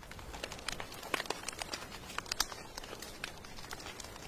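Wood fire crackling, with irregular sharp pops and snaps, over a steady hiss of falling rain.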